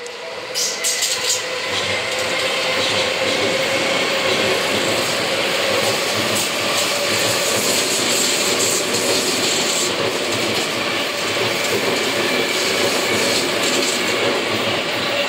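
Seibu 6000 series electric commuter train pulling out of a station and passing close by. A quick run of wheel clicks over rail joints comes about a second in, then a steady, loud rumble of wheels on rail with a faint steady whine.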